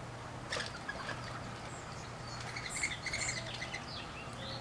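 Small birds chirping in short, scattered calls, more often in the second half.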